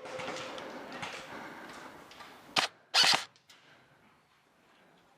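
Airsoft guns firing: a sharp single shot about two and a half seconds in, then a short, louder burst just after. The sound then cuts off abruptly.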